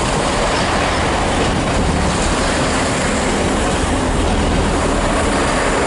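Long freight train of empty wagons rolling through a station, a steady loud rumble of wheels on rail.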